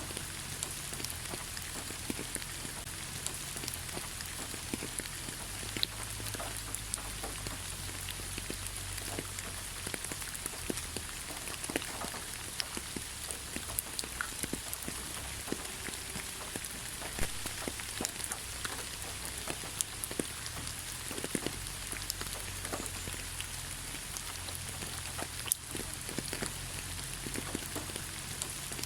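Steady rain falling in a pine forest: a dense, even hiss with many individual drops ticking sharply here and there.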